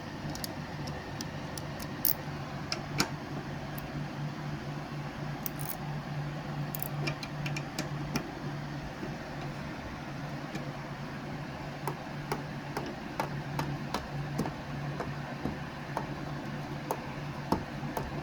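Scattered light metallic clicks and ticks of a 1/4-inch socket wrench backing out a bolt on a lawnmower carburetor, over a steady low hum.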